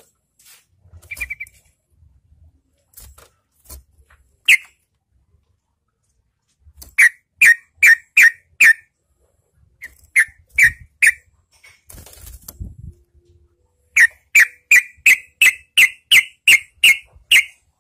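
Yellow-vented bulbul calling in runs of short, sharp notes at two to three a second. After a few scattered notes there is a run of five, then three, then a longer run of about ten near the end.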